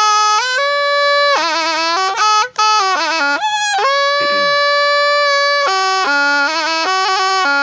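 Thai pi reed oboe playing a solo melody, moving between notes with quick wavering ornaments. There is a short break for breath about two and a half seconds in, and a long held note in the middle.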